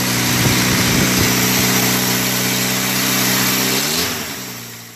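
Small car engine idling steadily. Near the end the revs rise briefly as the sound fades out.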